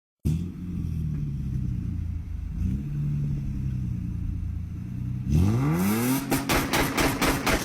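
Car engine with a loud exhaust idling with a low steady note. About five seconds in it is revved hard, the pitch rising fast, followed by a rapid series of sharp cracks.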